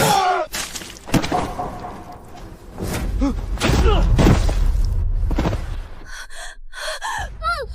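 Dramatized scuffle sound effects: several thuds and impacts mixed with men's grunts and cries, over a low rumbling music bed.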